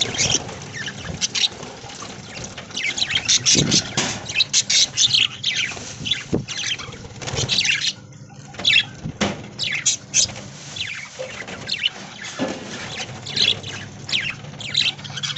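A flock of budgerigars chirping and chattering, with many quick high calls overlapping and a few short pauses.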